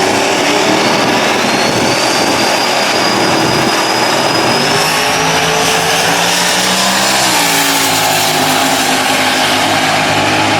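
Single-turbo Ford Mustang drag car engine running loud, with a thin turbo whistle climbing steadily in pitch. The engine note falls about seven seconds in.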